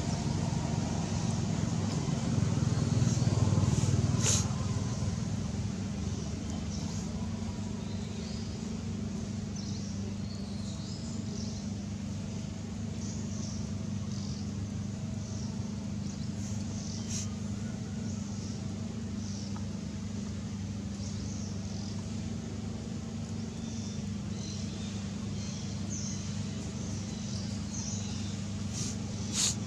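Steady low engine hum, louder for the first few seconds, with faint high chirps scattered over it and a couple of sharp clicks.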